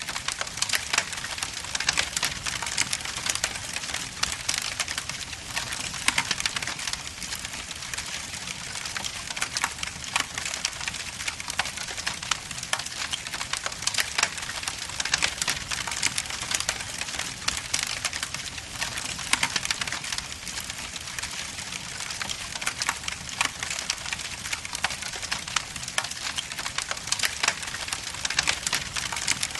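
Log fire burning in a fireplace: dense, continuous crackling with scattered louder snaps.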